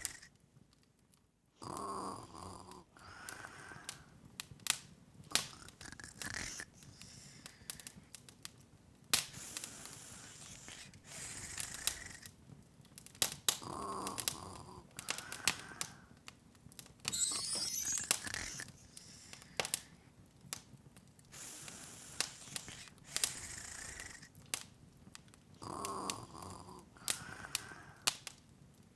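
Open fire crackling, with irregular sharp pops and snaps and soft swells now and then. A short rising high sweep comes about seventeen seconds in.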